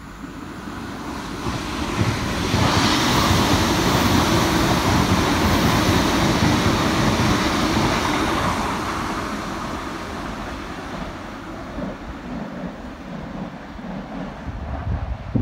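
Irish Rail Intercity diesel train passing on the near track: its engine and wheel rumble swells over the first couple of seconds, stays loud for several seconds, then slowly fades away.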